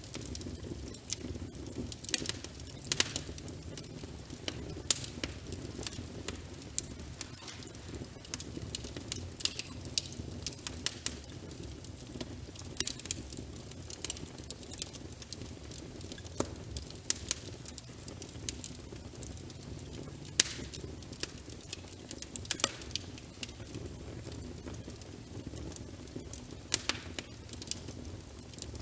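Wood fire crackling in a fireplace, with frequent irregular sharp pops over a steady low rumble, layered with rain.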